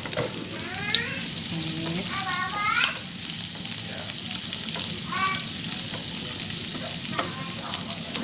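Minced garlic and sliced red chilies sizzling in hot coconut oil in a nonstick wok over a high flame, the sizzle growing stronger about a second in. An orange silicone spatula stirs them, with a few light scrapes and ticks against the pan. This is the sauté stage, frying the aromatics until fragrant.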